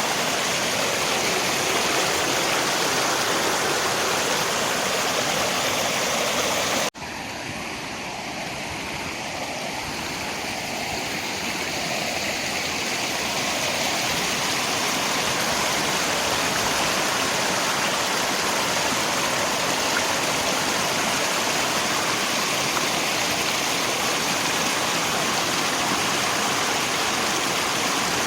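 Steady rushing of river water mixed with rain. About seven seconds in the sound cuts out for an instant, then fades back up to full level over the next several seconds.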